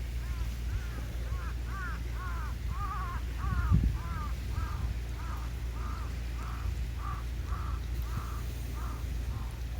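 A bird calling in a rapid, even series of short arched calls, about two a second, growing fainter after the middle, over a steady low rumble, with one thump about four seconds in.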